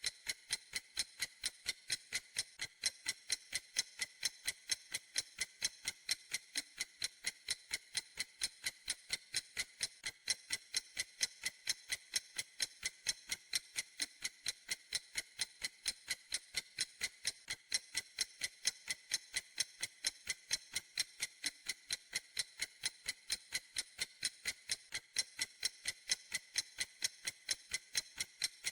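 Clock ticking at a steady, even pace, several light, high ticks a second.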